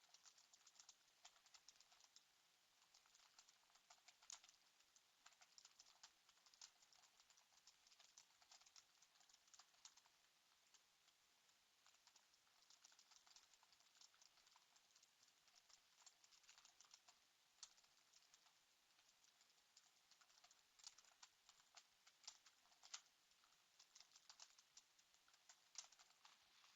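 Faint computer keyboard typing: irregular runs of keystroke clicks, with a few louder taps and a sparser pause in the middle.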